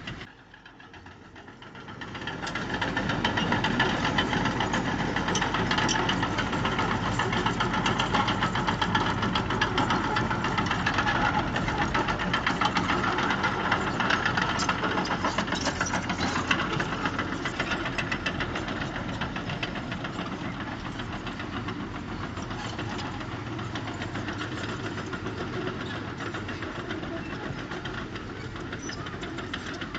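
Diesel engine of heavy earthmoving machinery running with a fast, even clatter. It is quieter for the first couple of seconds, then louder.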